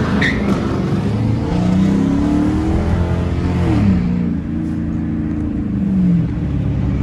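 2012 Dodge Charger R/T's 5.7-litre Hemi V8 through a straight-piped exhaust, barking as the car accelerates: the engine pitch climbs, drops sharply a little under four seconds in, holds, then falls away near the end.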